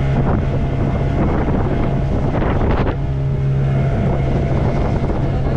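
Motorboat engine running at a steady drone, with wind buffeting the microphone and water rushing past the hull.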